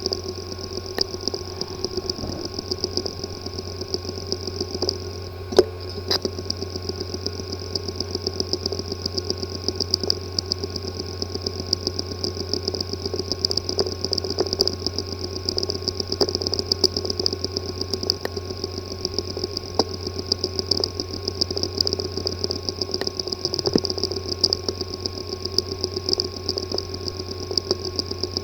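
A 3.5-inch hard drive with a physically damaged disk assembly running: a steady mechanical hum and whine with fast ticking throughout, the kind of weird buzzing and clicking such a drive makes.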